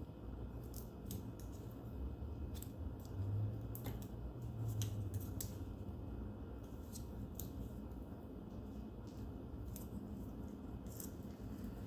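Small irregular metallic clicks and ticks, a few each second, from hand work on a Tuff Torq K91 transaxle while a damaged shaft seal is being worked off. A low steady hum runs underneath.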